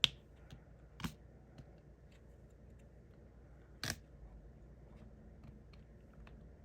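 Sharp clicks and light taps from small plastic diamond-painting pieces and tools being handled: a louder click at the start, another about a second in and one near four seconds, with fainter ticks between.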